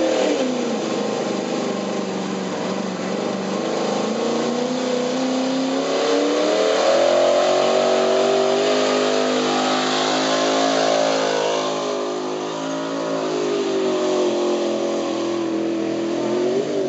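Pulling truck's engine running hard at high revs under load, its pitch sagging and climbing again several times as the weight bears down, and rising once more near the end.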